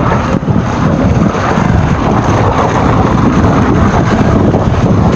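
Steady loud rush of riding noise from an electric mountain bike on the trail: wind buffeting the helmet-camera microphone, with the tyres rolling over the dirt.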